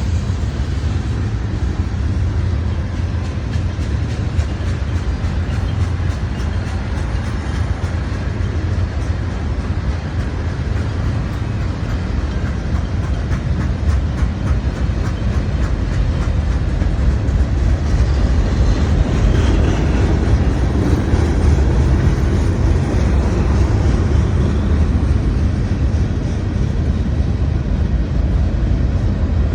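CSX mixed freight train rolling past: a steady low rumble from the cars with a running clatter of wheel clicks over the rails.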